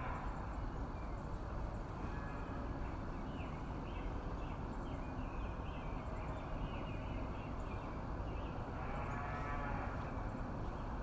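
Holstein-Friesian calves mooing: a short call at the start, a faint one about two seconds in, and a longer call about nine seconds in, over steady background noise.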